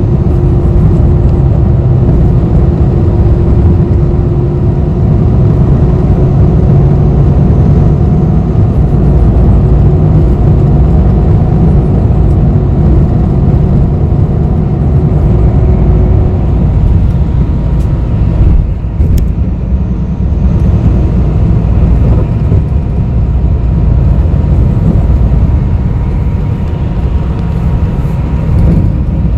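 Bus ride heard from inside the cabin: a steady, loud low rumble of engine and road, with a humming tone that fades out about halfway through.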